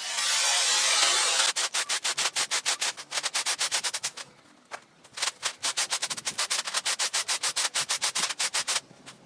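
Fast rhythmic rubbing or scraping strokes, about seven a second, in two runs of a few seconds with a short pause between; a steady hiss comes before them.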